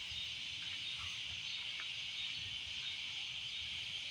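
Steady chorus of insects, an even high-pitched buzz with no break.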